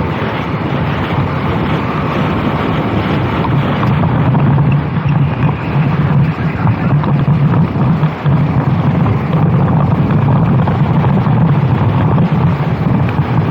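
Racing kart engine running hard at speed, a steady low drone with small dips in level, with wind buffeting the microphone.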